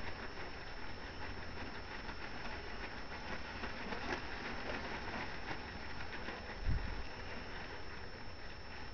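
Tarp rustling and crackling as it waves, with a dull low thump about seven seconds in.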